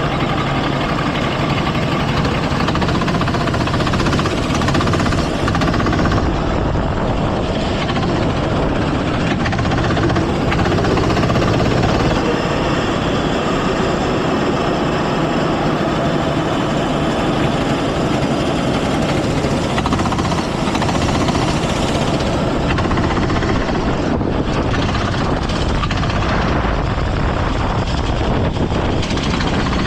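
Go-kart engine running steadily through the lap, with a constant rattling vibration as heard from a camera mounted on the kart.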